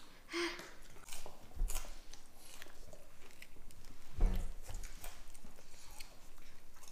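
A toddler biting and chewing a piece of pizza, with small wet clicks and two soft knocks, about one and a half and four seconds in.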